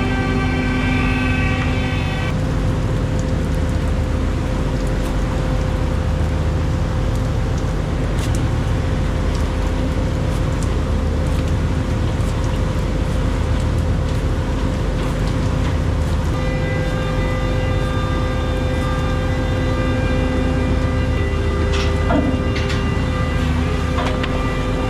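Prawn trawler's diesel engine running steadily as a low drone, with a higher steady whine of several pitches that drops out about two seconds in and returns about two-thirds of the way through. A few knocks sound near the end.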